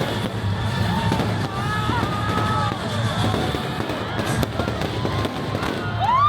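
Shipboard fireworks bursting and crackling over loud show music, with crowd voices underneath.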